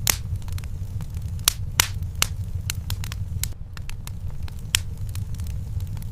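Wood fire burning in a fireplace: irregular sharp crackles and pops over a steady low rumble of the flames, the loudest pop right at the start.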